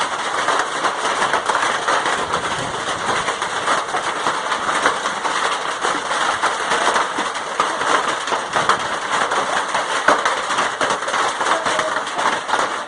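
Hailstorm: hailstones and rain pelting down in a loud, steady clatter of countless small impacts.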